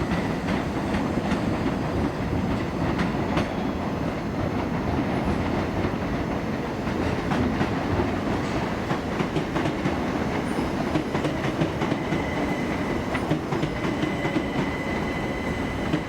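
Class 387 electric train running steadily, with a continuous rumble and frequent clicks of wheels over rail joints, and a faint steady high tone.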